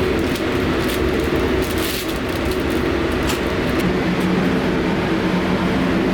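Steady machinery hum with rushing air: paint-booth equipment running during spray painting, with a lower hum tone setting in about four seconds in.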